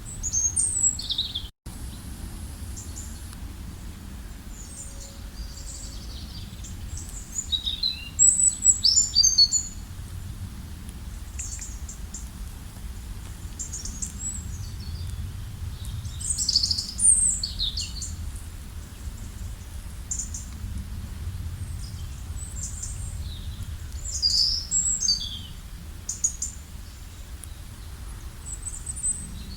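Several songbirds chirping and singing in short, high, rapid phrases on and off throughout, over a steady low rumbling background. The sound cuts out completely for a split second about a second and a half in.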